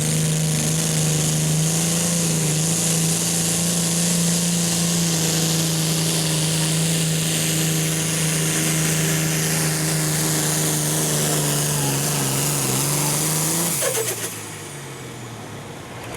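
Turbocharged diesel super stock pulling tractor running flat out under load, with a steady high turbo whine over the engine note. About fourteen seconds in the engine drops off sharply as the throttle is shut at the end of the pull, and the turbo whistle winds down in pitch.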